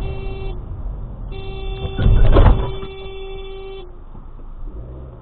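Car horn honking: a short beep, then a long blast of about two and a half seconds. A loud, low thud-like burst comes in the middle of the long blast, over steady road noise.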